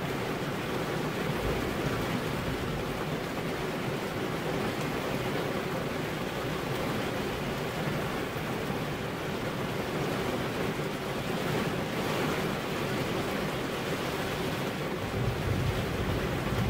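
Steady heavy rain, a dense even hiss, with a low rumble swelling near the end.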